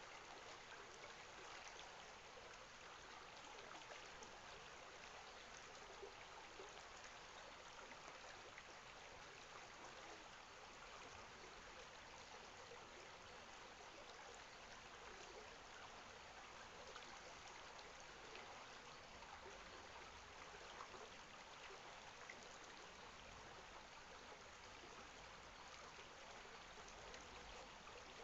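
Stream water flowing steadily: a faint, even rush with small trickles and splashes.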